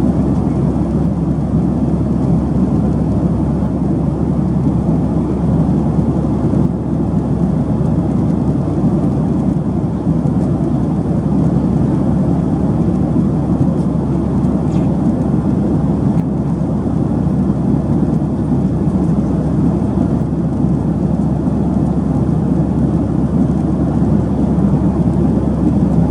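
Steady in-flight cabin noise of a Boeing 737-800: airflow and engine noise as an even, deep rushing sound with no changes.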